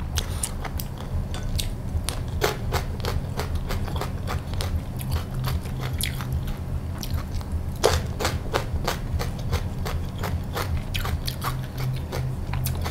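Close-miked chewing of raw winged bean slices, with many small crisp crunches coming irregularly.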